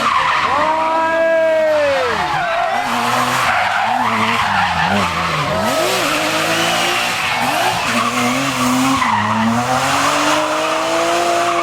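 Car engine revving hard and dropping back repeatedly while the tyres squeal and skid through a drift. The revs swoop up and down several times, then climb steadily near the end.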